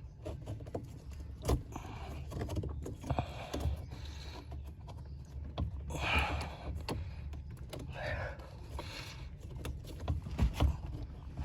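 A rubber pedal insert being worked onto a metal clutch pedal by hand: scattered clicks and knocks with several short rubbing, scraping bursts, the strongest about halfway through.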